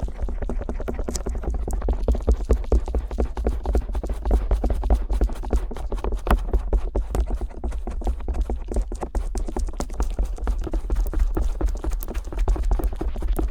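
A stainless steel ear pick scraping and tapping on the silicone ear flaps of a binaural microphone. It makes a dense, rapid run of crisp clicks and scratches over low, muffled thuds.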